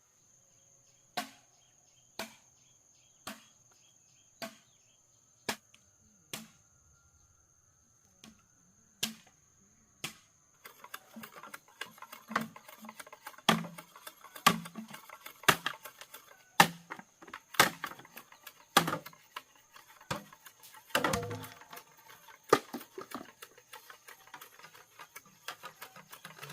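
A blade chopping bamboo in sharp single strikes about once a second. From about a third of the way in, the strikes come over a constant crackling and scraping of the bamboo being worked. A thin steady high whine runs underneath.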